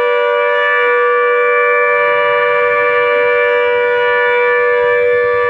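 Truck horn blaring in one steady, unbroken tone, set off by a homemade door sensor when the cab door is opened: a DIY anti-theft alarm.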